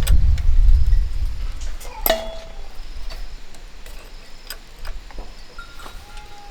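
A low rumble fading over the first second or two, then scattered light metallic clinks and taps, the loudest about two seconds in with a brief ring.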